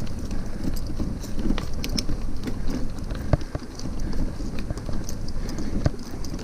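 Hybrid bicycle rolling over a rough dirt trail: a steady low rumble with wind on the microphone, and frequent clicks and knocks as the bike jolts over bumps and roots, the sharpest about three seconds in and again near the end.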